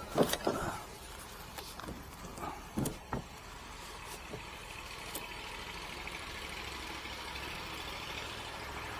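Steady low engine idle, with a few sharp knocks and clunks in the first three seconds and one more about five seconds in.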